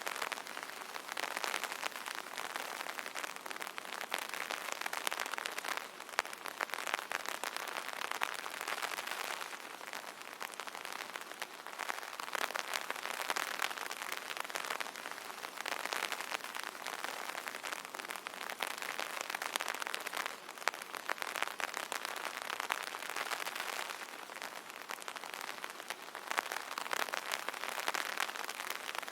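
Rain pattering on an umbrella's fabric canopy: a dense patter of many small drop hits that swells and eases every few seconds.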